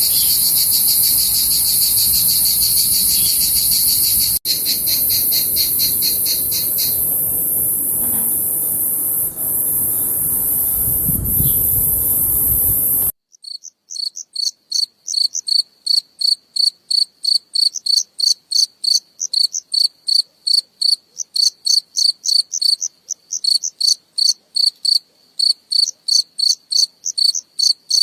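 Crickets chirping: first a dense, unbroken high chorus of trills, then after a sudden cut about halfway through a single cricket's clean chirps, evenly spaced in a steady rhythm.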